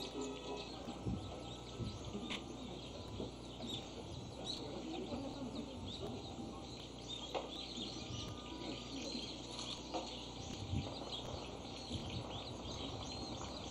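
Outdoor ambience with faint bird chirps and an occasional small knock or shuffle.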